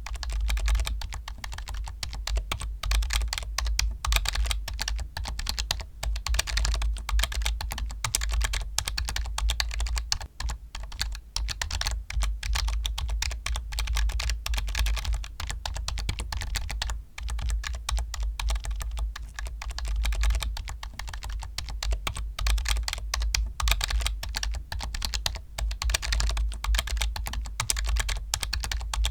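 Computer keyboard being typed on fast and without a break: a dense run of key clicks with only short pauses.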